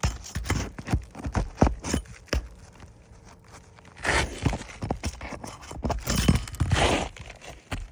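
Knocks and scraping on an asphalt-shingle roof: a quick run of knocks for the first couple of seconds, then several longer scraping bursts, as a roofer steps and works at a shingle to remove it.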